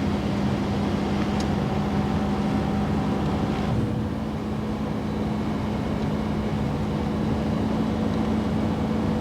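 Steady road and engine noise heard from inside a moving car's cabin, with a constant low hum running under it.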